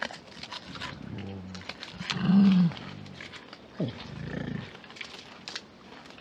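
Silverback gorilla giving three short, deep grunts while it feeds, the loudest about two seconds in, amid sharp clicks and crunches of chewing on a plant stem.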